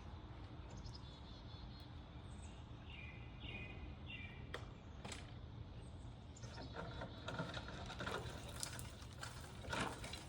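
Outdoor ambience with a steady low rumble; a bird gives a few short chirping notes about three seconds in. Over the second half come irregular rustling and clattering handling noises, the loudest one just before the end.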